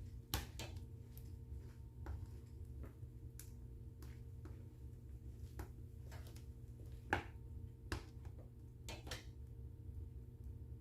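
Wood fire in a fireplace crackling, with irregular sharp pops, the loudest about seven seconds in, over a steady low rumble.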